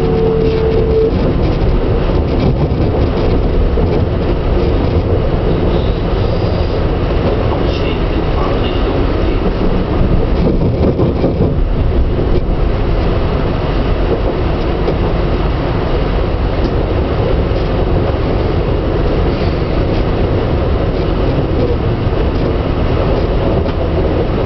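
Steady running noise of a regional passenger train, heard from inside the coach: a continuous low rumble of the wheels on the rails as it rolls along at an even speed.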